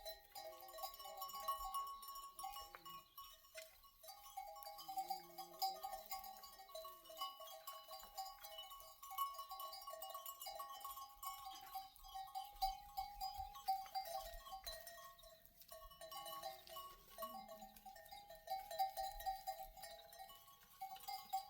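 Bells of a grazing flock of sheep and goats clinking continuously as the animals move, with a few bleats in between.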